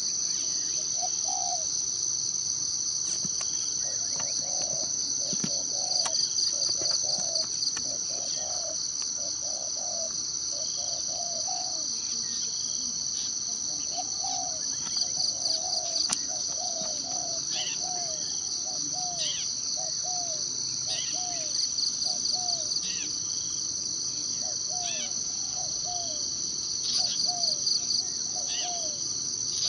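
Forest ambience: a steady, high, pulsing insect drone throughout, with birds calling over it. One bird repeats short, low, down-slurred notes in runs, and fainter, higher down-sweeping calls come every second or two.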